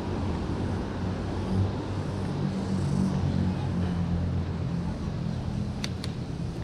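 Vehicle engine running steadily with road noise while riding along, with a few short sharp clicks near the end.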